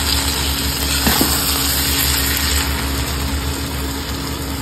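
Kadai paneer sizzling in a black kadhai on an induction cooktop, stirred with a steel spatula, over the cooktop's steady low hum.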